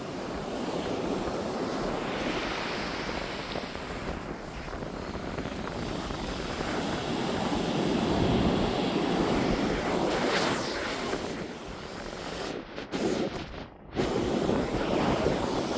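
Sea waves surging and breaking, with wind buffeting the microphone; the surf swells loudest about halfway through, and the sound briefly drops out twice near the end.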